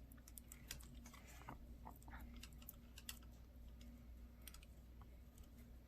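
Near silence with faint, scattered small clicks and scratches of fingers handling and rubbing the silicone sealant off a flip phone's parts, over a faint steady hum.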